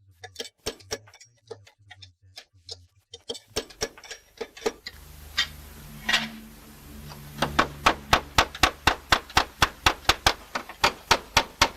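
Slater's hammer striking slate in short, sharp taps: scattered at first, then a steady run of about three light blows a second from a little past halfway. A low steady hum comes in about three seconds in.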